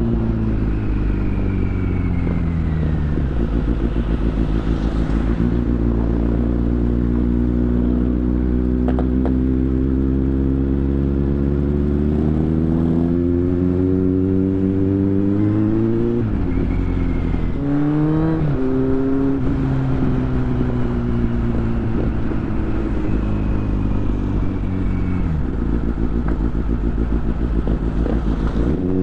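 Superbike engine under way, its pitch falling as it slows in the first few seconds, then holding low. It climbs again from about twelve seconds in, with quick drops at gear changes around sixteen and eighteen seconds, before easing off again.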